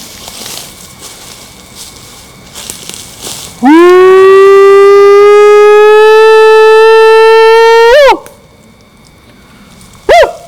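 A man's loud Bigfoot call: a long howl that swoops up, holds a slowly rising note for about four seconds, and breaks off with a quick upward flip. A short rising-and-falling whoop starts right at the end.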